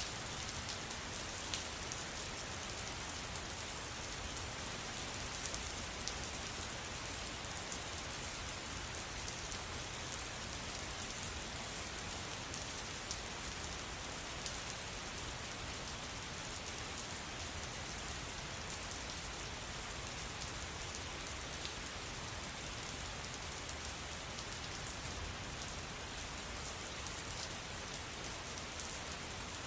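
Steady rain falling, a constant hiss with many small drop ticks spread through it.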